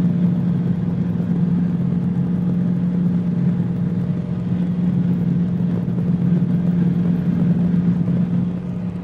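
Cabri G2 helicopter's cabin noise picked up through the headset intercom: a steady drone of its four-cylinder Lycoming piston engine and rotors, with a strong low hum, while the helicopter hovers.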